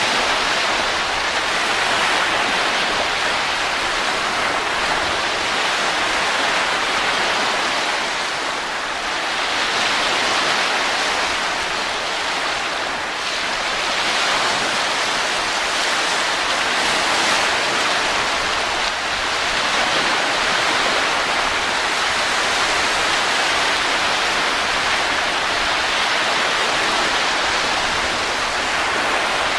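Steady rushing wind that swells and eases gently every few seconds, without breaks.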